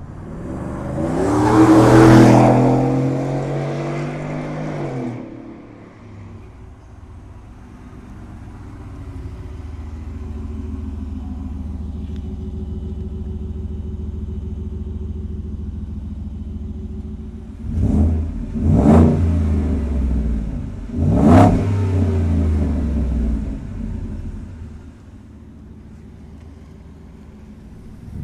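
Ford F-150 Tremor with an MRT V2 muffler custom exhaust. The exhaust revs up and falls back over the first few seconds, then idles steadily. Later it gives three quick, sharp throttle blips and settles back to a quieter idle.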